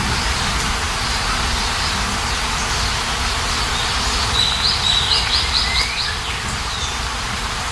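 Steady rain hiss with a songbird calling over it; about halfway through the bird gives a quick run of five or six repeated high notes and a short falling whistle.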